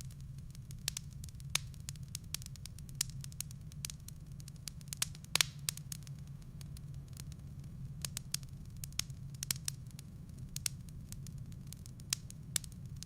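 Firewood burning in a fireplace, crackling with irregular sharp pops, a louder cluster of pops about five seconds in, over a steady low rumble.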